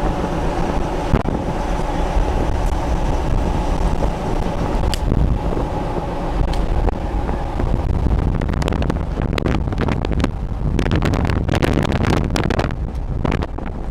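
Wind buffeting the microphone over a steady low rumble. About halfway through the buffeting turns choppy and gusty.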